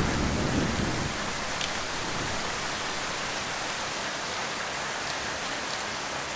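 Heavy rain falling steadily, with the last of a thunder rumble dying away in the first second.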